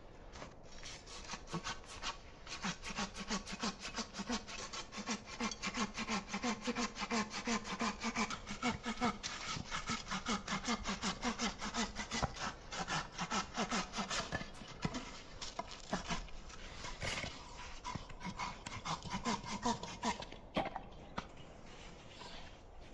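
Hand saw cutting through wood in quick, even back-and-forth strokes, easing off near the end.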